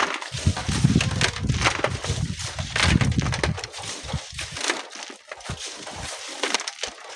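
Wind buffeting the microphone as a low rumble that lasts about four seconds and then drops away, with scattered crunching and clicking throughout.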